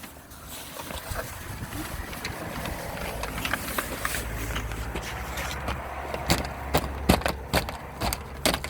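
Clicks and knocks of recyclable items being handled and dropped into a bin, coming thick in the second half, over a low steady rumble.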